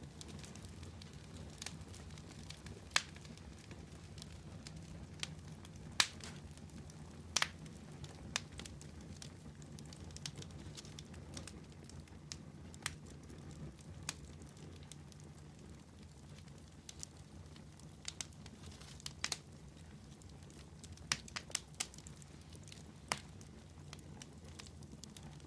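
Wood campfire burning, with sharp crackles and pops at irregular intervals over a steady low background hum.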